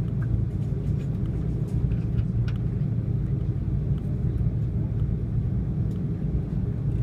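Steady low rumble of an Airbus A330-300's cabin as it powers through its departure, with engine and airflow noise heard from a seat at the rear. A few faint light ticks, like cabin fittings rattling, sit over the rumble.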